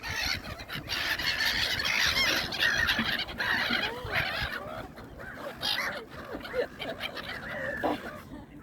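A flock of birds calling over thrown food: a dense chorus of short, overlapping cries for the first few seconds, thinning to scattered calls after about five seconds.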